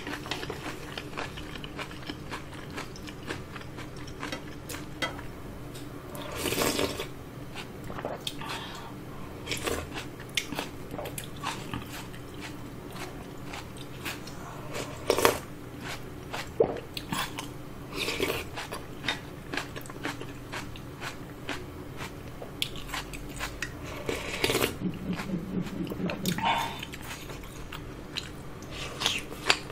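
Close-miked eating sounds: chewing, biting and wet mouth clicks as udon noodles and broth are eaten, with a few louder moments along the way.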